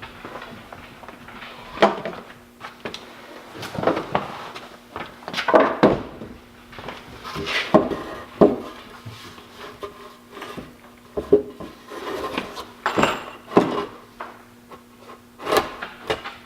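Wooden 2x12 lumber being handled and worked into place on a workbench frame: irregular wooden knocks and clunks a second or two apart, with scraping between them.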